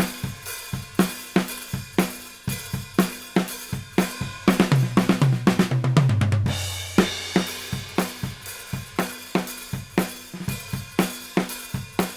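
Drum kit playing a steady groove of kick, snare and hi-hat, picked up by overhead condenser mics through the 501+ preamp with its 20 dB input pad engaged. About halfway in, a fill of drum hits falling in pitch ends on a cymbal crash.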